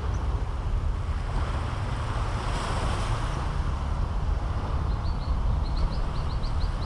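Caribbean Sea surf washing on the beach, with a steady low rumble of wind on the microphone; the wash swells about halfway through. In the last two seconds a bird gives a rapid series of short, high chirps, about five a second.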